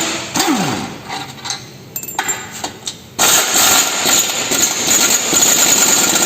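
A power wrench runs in bursts while undoing the steering rack's mounting bolts. There is a short run near the start, with a falling whine as it spins down, and then a long steady run from about three seconds in.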